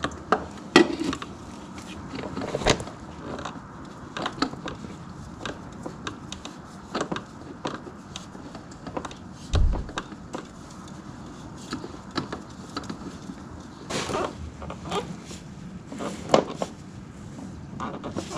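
Hand work on a garden tractor: scattered small clicks, knocks and rubbing of parts and tools being handled, with a dull thump about ten seconds in.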